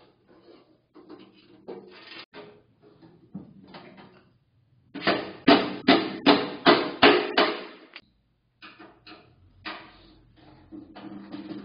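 Hammer blows on the sheet steel of an ammo can being made into a stove: scattered lighter taps, then about halfway through a run of about seven loud, ringing strikes, roughly two and a half a second.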